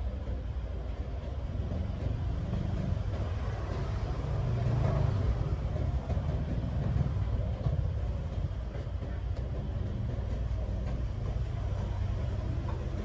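Small two-stroke cultivator engine running steadily, a little louder for a few seconds about a third of the way in.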